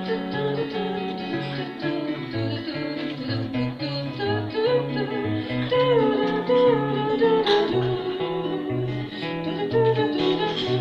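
Instrumental passage of a song: guitar playing a melody over a steady bass line.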